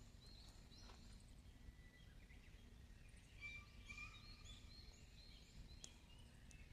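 Faint outdoor ambience with scattered small bird chirps and short whistled calls, busiest around the middle, over a low steady background noise.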